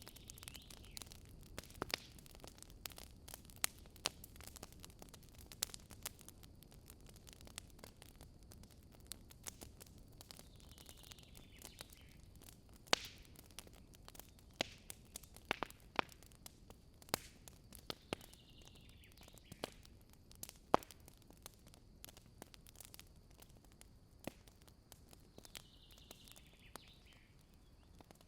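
Wood fire burning, with irregular sharp crackles and pops over a soft hiss. A faint falling whistle recurs four times, about every seven or eight seconds.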